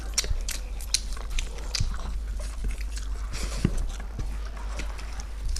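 People eating a meal of rice and fish curry: wet chewing and mouth smacks, many short clicks a few times a second, over a steady low hum.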